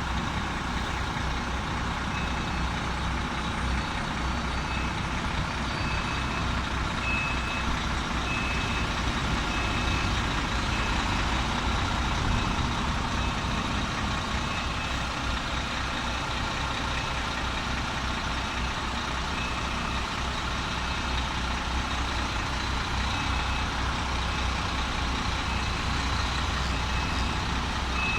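UD Trucks Quester prime mover reversing: its diesel engine running steadily under a high reversing alarm that beeps about once every 0.7 seconds, fading in the middle and coming back near the end.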